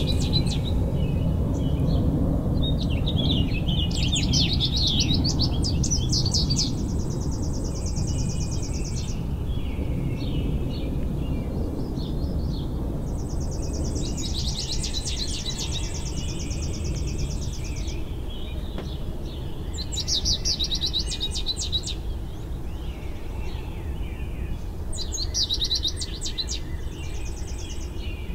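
A songbird singing repeated phrases of quick high notes, several running into a long, fast buzzy trill lasting two to three seconds, about every seven to ten seconds. Under it runs a steady low background rumble.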